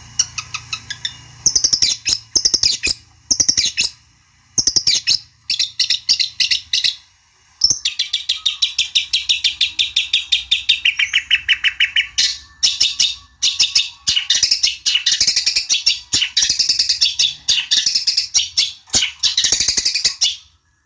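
Long-tailed shrike singing a fast, chattering song of rapid, sharp repeated notes. It comes in broken phrases at first, then runs almost without a break from about seven seconds in.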